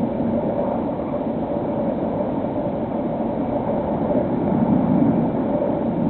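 The steady drone of a HobbyKing SkyEye's small electric motor and propeller in flight, with a constant hum over a rush of air.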